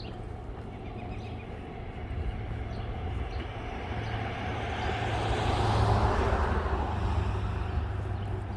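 A road vehicle driving past: tyre and engine noise that builds to its loudest about six seconds in, then fades away.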